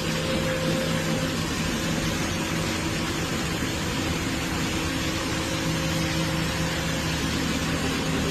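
Rollback tow truck's engine running at a steady speed, a constant hum under a steady hiss, while the truck is being loaded.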